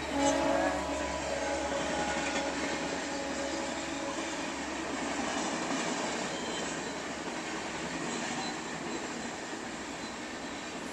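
Steady rumbling noise of a train, with a low hum that fades out about halfway through.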